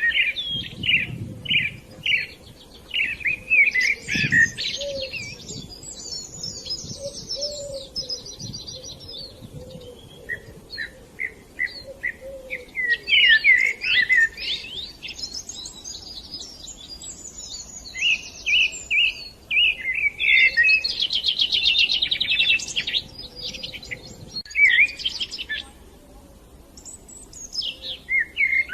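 Budgerigars chirping and warbling: short high calls mixed with fast buzzy trills, coming in bursts with brief lulls.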